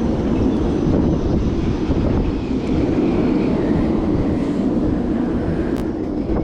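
A steady, loud, low rushing noise with no clear pitch or rhythm.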